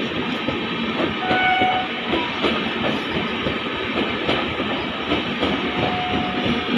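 Train running past on the track, its wheels clattering steadily over the rail joints.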